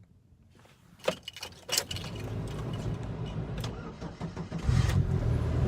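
Chevrolet S10 Xtreme pickup engine cold-starting after sitting for over a week in below-freezing weather: a couple of clicks, then the engine runs, growing louder about five seconds in.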